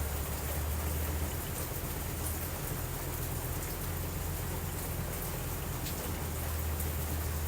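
Steady rain falling, an even hiss with faint scattered drop ticks, over a constant low rumble.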